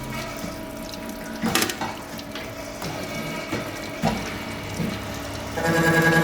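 Shaft milling machine running, with steady machine tones, a sharp clank about a second and a half in and a smaller knock a few seconds later. Near the end a louder motor hum with several steady tones starts up.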